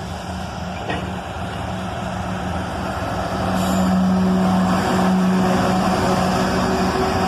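Loaded iron ore freight train rolling past on steel wheels, with a sharp clack about a second in, growing louder under the steady drone of an approaching diesel locomotive, the mid-train ET44AH distributed-power unit. A brief hiss joins in about halfway through.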